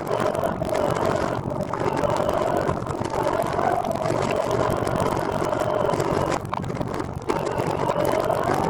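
Steady vehicle running noise: a continuous hum with a tone that rises and falls slightly in pitch, dipping briefly twice.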